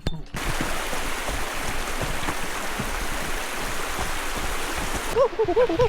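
Steady rush of river water. About five seconds in, a quick series of short, repeated chirping calls begins.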